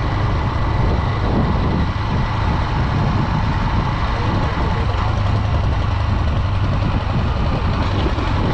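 Honda Dream 110's single-cylinder four-stroke engine running: a steady low hum under a constant rushing noise.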